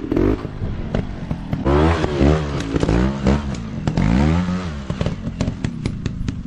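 Off-road dirt bike engine revving in repeated surges, rising and falling in pitch several times, with clattering knocks over it.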